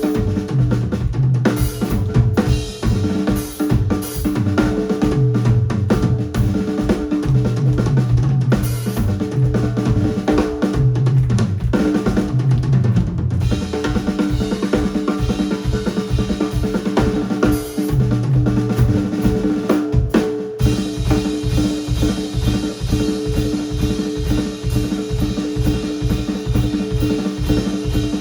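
Live band music driven by a busy drum kit: kick drum, snare and rimshots played densely over held notes and shifting low notes. About twenty seconds in, the drumming settles into a fast, even beat.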